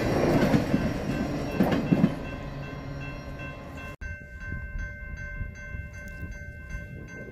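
Intermodal train's cars rolling past over the rails with a steady rumble and clatter, getting quieter, with a clank about two seconds in. About four seconds in the sound cuts abruptly to background music with sustained tones.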